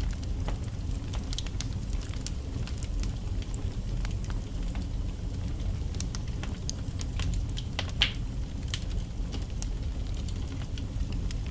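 Wood fire burning in a fireplace: a steady low rumble of flames with scattered crackles and pops from the logs, one louder pop about eight seconds in.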